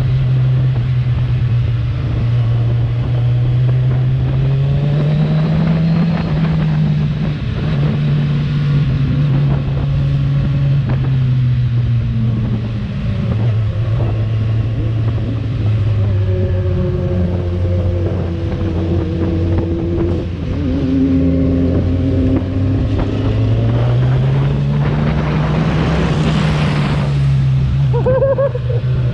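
Kawasaki Z1000R inline-four engine with its stock exhaust, running under way at cruising speed with wind rushing past. The engine note rises and falls gently with the throttle several times, and near the end it climbs with a louder rush of noise before settling again.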